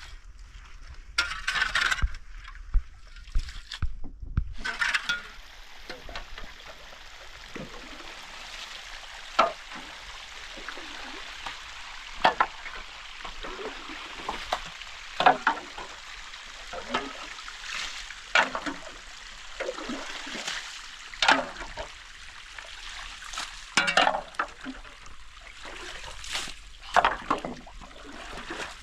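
Water splashing and sloshing in irregular strokes, one every second or two, over a steady rushing hiss.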